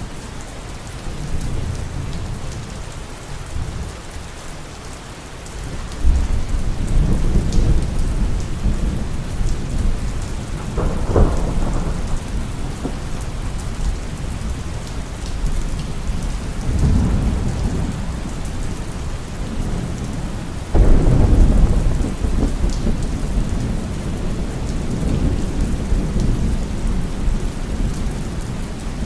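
Steady heavy rain with rolling thunder: deep rumbles break in suddenly about six seconds in and again around eleven, seventeen and twenty-one seconds in, the first and last of these the loudest, each fading slowly under the rain.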